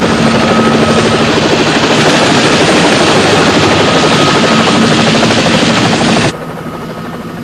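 Helicopter running loud, rotor chop over a steady engine hum; it cuts off abruptly about six seconds in, leaving a lower background rumble.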